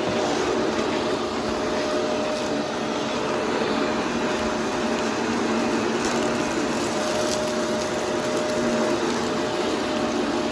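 Upright vacuum cleaner running steadily with a constant motor whine, and a stretch of crackly rattling in the middle as debris is sucked up.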